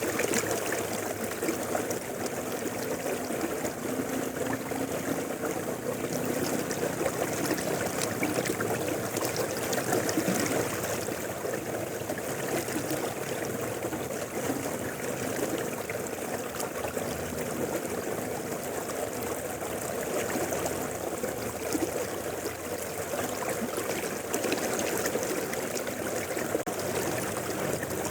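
Mountain river flowing, a steady rush of water that holds an even level throughout.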